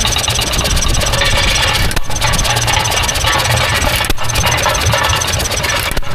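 Engine idling steadily, with an even, rapid firing beat.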